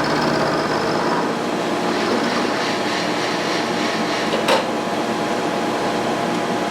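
Shop heater's blower running steadily, with one sharp click a little past halfway.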